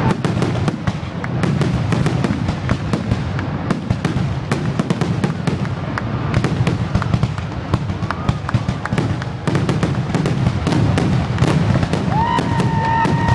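Fireworks finale barrage: a dense, continuous run of explosions and sharp crackling reports over a steady low rumble. A steady high whistle cuts in near the end.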